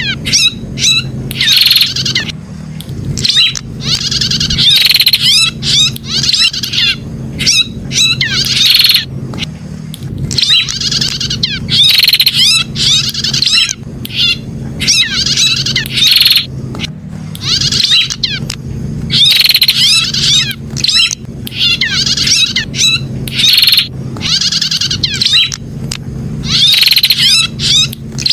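Prenjak (prinia) calling: bursts of rapid, high, sweeping chirps in short phrases that repeat every second or two, over a steady low hum.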